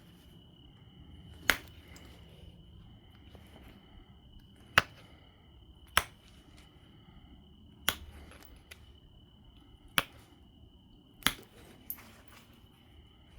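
Obsidian being knapped into a biface: six sharp clicks of flakes snapping off the stone, one every one to two seconds, with a smaller click near the end.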